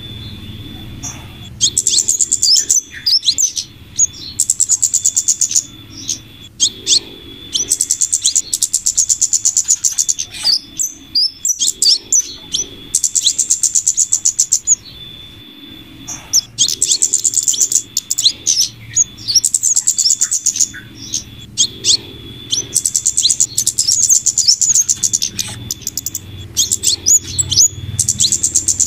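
Bird-lure recording of flowerpecker calls combined with female scarlet minivet calls. Bursts of very rapid, high-pitched ticking chatter, each lasting a second or two and recurring every few seconds, alternate with sharp single chirps. A thin steady high tone runs under parts of it.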